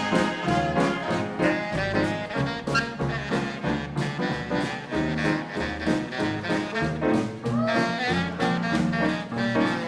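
Big band dance orchestra playing a swing number, with brass and saxophones carrying the tune over a steady bass beat.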